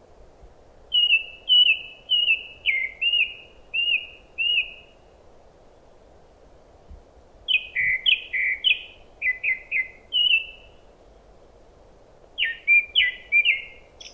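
A songbird singing three phrases of short, clear whistled notes, each phrase a quick run of repeated chirps, with pauses between them. A steady low background hum runs underneath.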